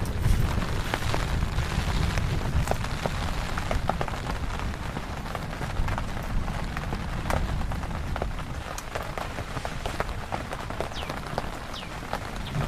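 Heavy rain falling and striking a surface close by: a steady low rumble with many sharp individual drop hits scattered through it.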